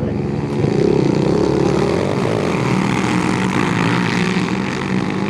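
A motorized watercraft engine running at speed close by, its pitch wavering as the throttle changes.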